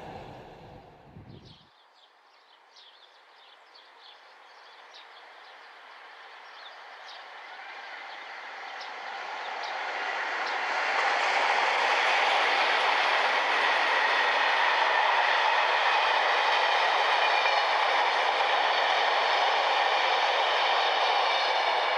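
A train approaching on the line and passing close by. It starts faint with light ticking and builds to a loud, steady rush of wheels on rails from about halfway through.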